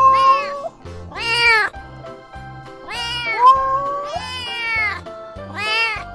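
Kitten meowing about five times, each meow rising and then falling in pitch, over background music with a steady beat.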